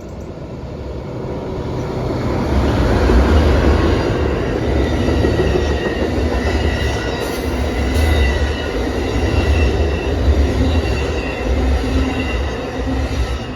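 Amtrak passenger train passing close by: a heavy rumble of wheels on rail that builds over the first few seconds and holds, with a thin, high wheel squeal over it.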